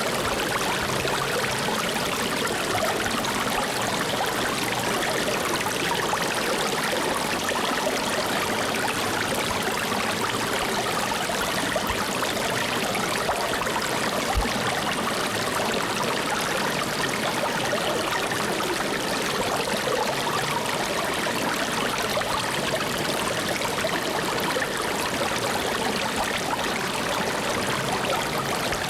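Flowing water running steadily, an even, unbroken rush like a stream.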